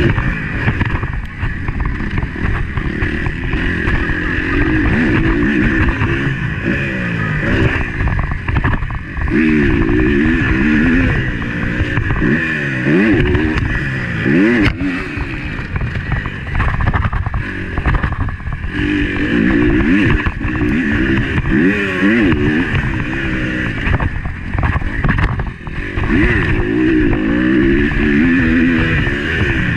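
Motocross bike engine revving up and falling back again and again under hard riding, heard from a camera mounted on the bike.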